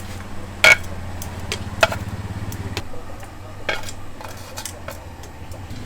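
Sharp clinks and knocks of dishes and utensils, the loudest about a second in, over a steady low engine hum.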